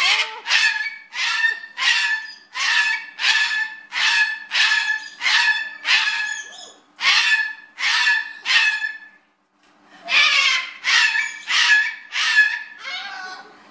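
Cockatoo calling in a rapid, even series of harsh, barking calls, about three every two seconds, breaking off briefly about nine seconds in and then starting again before tailing off.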